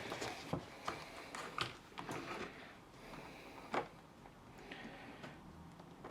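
Faint scattered clicks and short rustles of hand work inside a suitcase: tape is picked off the screw heads and the plastic handle housing is handled.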